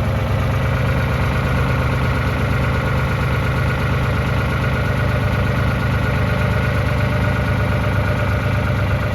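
Case JX55 farm tractor's diesel engine running steadily at an even speed.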